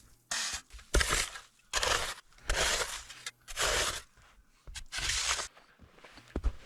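Packed snow being cut and scraped out by hand in repeated strokes, about one a second, each a short crunching scrape.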